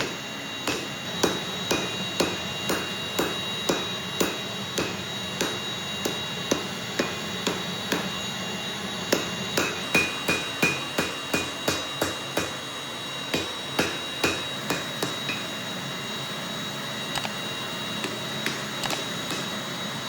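Hammer blows on hot steel during forging of a spring-steel Damascus billet, about two strikes a second. The strikes come closer together around the middle and thin out in the last few seconds, over a steady high whine.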